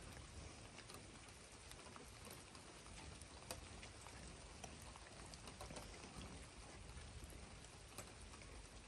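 Faint, steady rain with scattered single drops tapping, one a little louder about three and a half seconds in.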